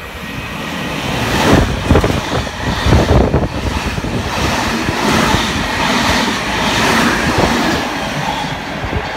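A V-set double-deck electric intercity train passing through the station at speed. Wheels clatter over the rail joints amid a rush of air, loudest a second or two in as the cars sweep past, then easing slightly near the end as it moves away.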